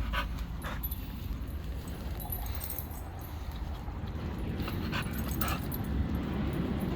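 A dog making a few short, faint sounds over a steady low rumble.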